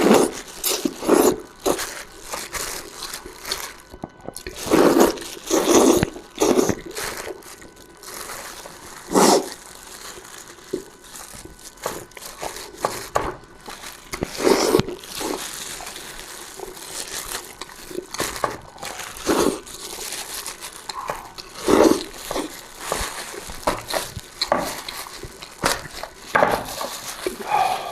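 Close-miked eating sounds: irregular wet slurps, sucking and chewing of soft, mushy stewed food, in short bursts every second or two.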